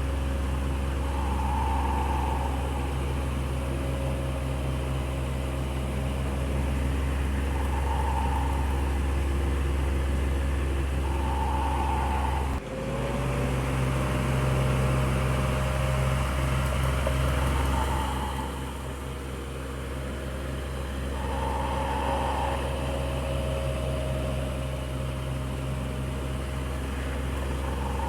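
Electric fan running steadily, a low motor hum with a soft whoosh of air and faint swells every few seconds. About halfway through the level dips briefly, and the hum then settles at a slightly higher pitch.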